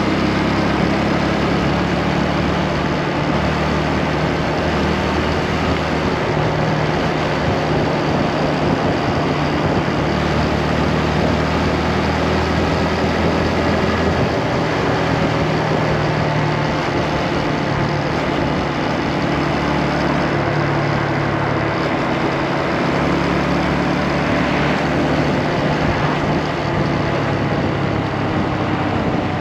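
Motorcycle engine running steadily while riding, over a dense noisy hiss; near the end its pitch falls as the bike slows.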